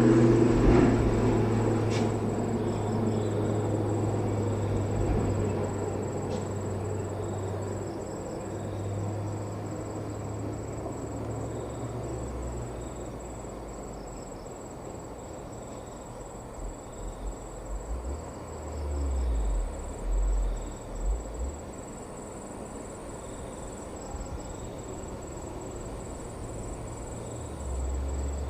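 A truck engine running and fading away over the first dozen seconds. Then insects chirp in a steady rhythm over a faint high whine, with a few low thumps about two-thirds of the way through.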